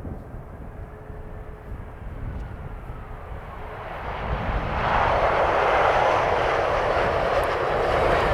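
Boeing 737-800 jet engines on an arriving airliner, swelling sharply to a loud steady rush about four and a half seconds in, over a low wind rumble.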